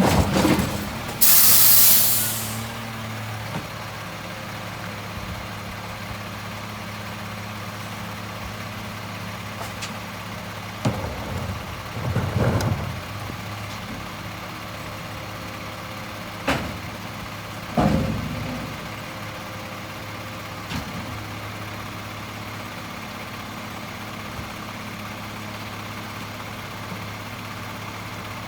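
Peterbilt 520 garbage truck's diesel engine idling steadily, with a loud air-brake hiss about a second in. Several clunks and bangs come in the middle.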